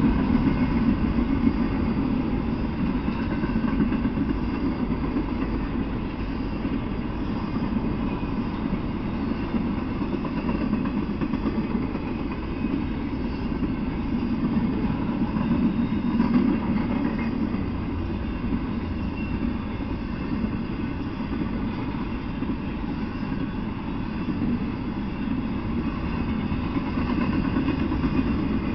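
Freight train rolling past at steady speed, a string of empty intermodal well cars and other freight cars: a continuous low rumble of steel wheels on rail that swells and eases slightly as the cars go by.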